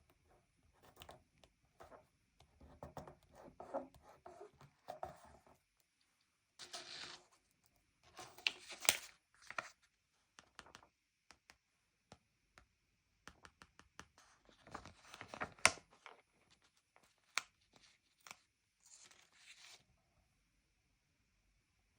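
Paper stickers being peeled off their backing sheet and pressed onto a sticker book's pages: short tearing rasps, taps and paper rustles in scattered bursts with brief pauses between.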